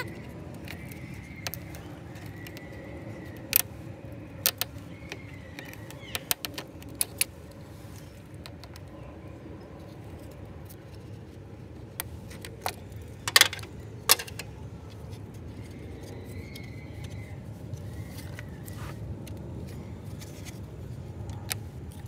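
Scattered sharp metallic clinks and clicks of pliers working a spring hose clamp on a radiator hose, with the loudest clinks about two-thirds of the way through, over a steady low background hum.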